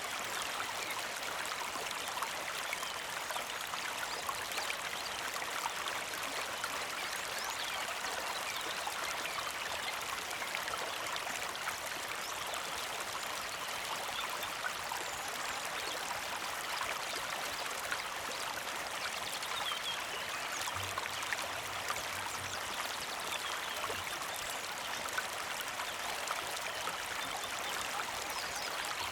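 Small creek flowing with a steady, gentle trickle.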